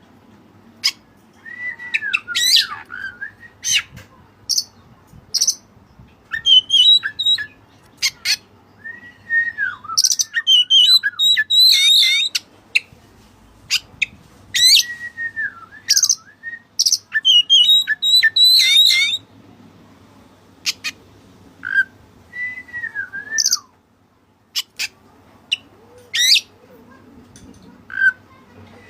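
Oriental magpie-robin (kacer) singing a loud, varied song in repeated phrases of sweeping whistles, rapid warbles and sharp clicks with short pauses between them. It is the bird's challenge song, used as a lure to provoke a rival.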